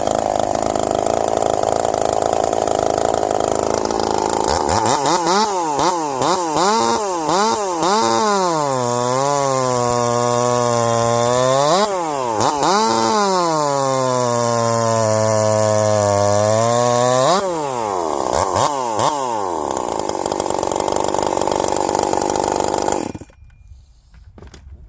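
Husqvarna 346 two-stroke chainsaw engine running, its ports filled with JB Weld to repair a porting mistake. It starts out running steadily, then is revved up and down in a string of quick blips, held at high revs for several seconds, and dropped back to a lower speed before cutting off abruptly near the end.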